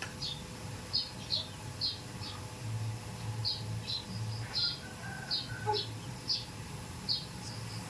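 A small bird chirping over and over: about a dozen short, high chirps at an uneven pace, with a faint low hum underneath.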